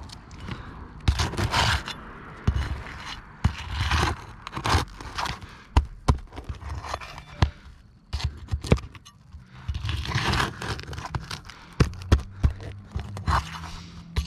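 Tools scraping and knocking against roof shingles as the nails holding a shingle are worked loose: repeated rasping scrapes broken by sharp clicks and knocks.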